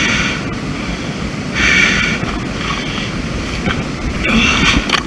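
Heavy breathing of a hiker panting from the exertion of a steep climb, a breath about every two seconds, over a steady rumble of wind on the microphone.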